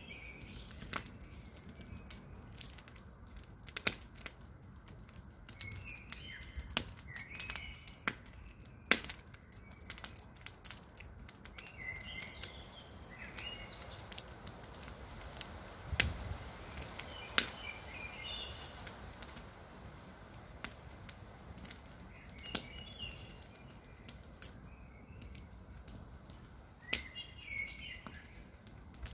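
Campfire crackling, with irregular sharp pops of burning wood. A bird sings a short chirping phrase in the background about every five seconds.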